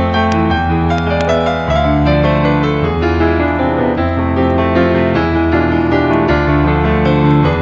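Slow, calm piano music with held low notes changing about once a second, and a few faint crackles of a wood fire over it.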